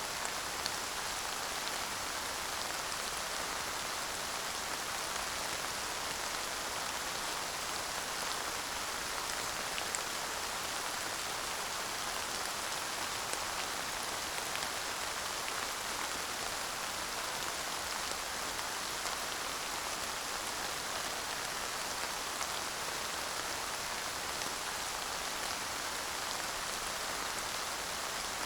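Steady light rain falling, with a few faint drop ticks here and there and no thunder.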